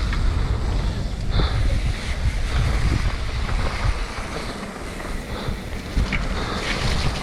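Mountain bike descending a wet, muddy trail: wind rumbling on the camera microphone, with tyre noise and scattered knocks and rattles from the bike over rough ground.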